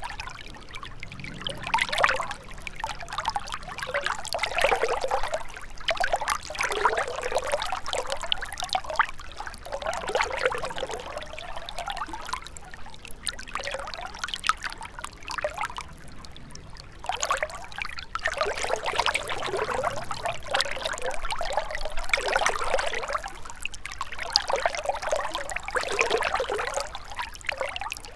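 Gentle river running over a shallow bed, a continuous rush of water that swells and eases every few seconds, with a quieter lull a little past the middle.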